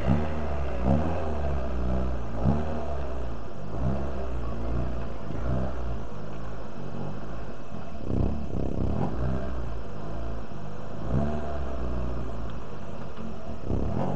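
Rally car engine revving hard. The pitch climbs and drops back again and again as it works through the gears, over a heavy, steady low rumble.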